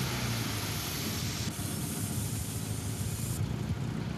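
A car engine running steadily under a loud, even hiss.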